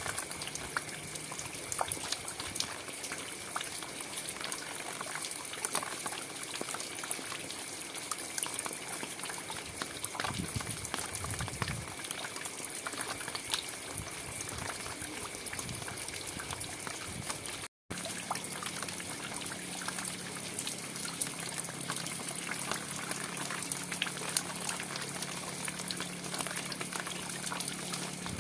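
Steady rain falling, a continuous hiss dotted with many small drop ticks. It cuts out for a split second about two-thirds of the way through.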